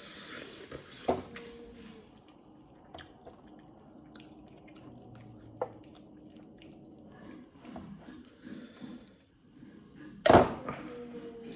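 Dishes and utensils knocking during a meal: a few sharp clicks, then one loud knock near the end that rings briefly, with quieter wet, squishy sounds between.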